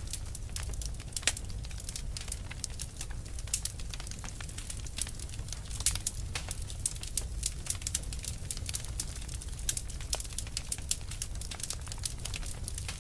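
Burning fire crackling: irregular sharp pops and snaps, many each second, over a steady low rumble of the flames.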